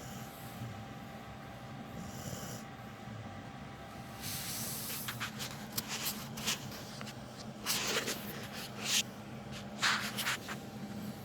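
A sleeping dog snoring, with a run of short, sharp noisy breaths through the nose in the second half.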